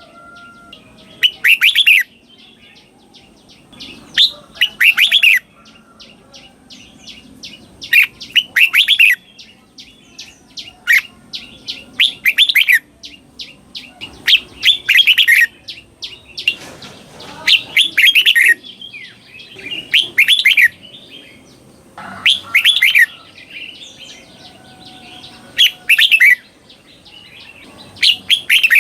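Red-whiskered bulbul singing its doubled (เบิ้ล) song: short, bright phrases of quick notes, repeated every two to three seconds.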